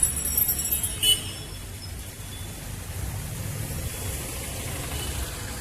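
A bell rings twice, briefly, near the start, the second ring about a second after the first, over a steady low rumble of street traffic.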